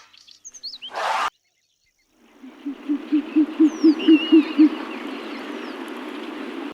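An animal call: a quick run of about nine low hoots, roughly four a second, over a steady hissing outdoor background with a few small birds chirping. A short burst of another sound comes about a second in, before the hoots begin.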